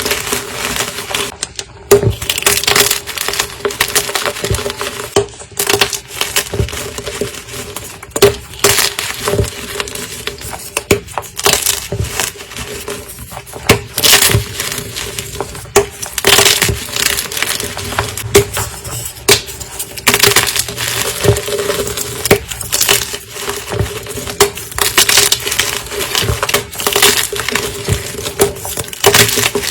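Gym chalk being crushed: a dense, irregular run of crisp, crunchy cracks and crumbles, with sharper loud crunches every second or two.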